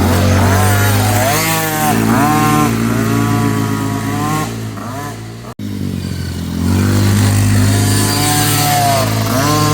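Youth motocross dirt bike engine revving up and down repeatedly. The sound cuts off abruptly about halfway and resumes straight away.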